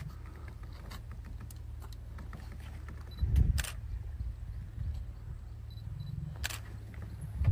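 A few sharp camera shutter clicks, one near the start, one about three and a half seconds in and one about six and a half seconds in, over a steady low rumble.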